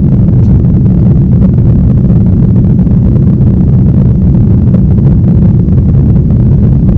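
Loud, steady low rumble inside a moving vehicle's cabin, with no change in pitch or level.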